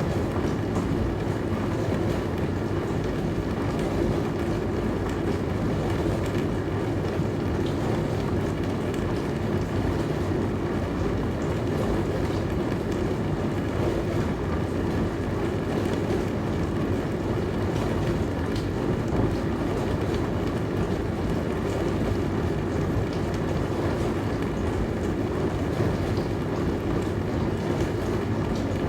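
Dishwasher running mid-cycle, a steady low wash noise with a faint constant hum.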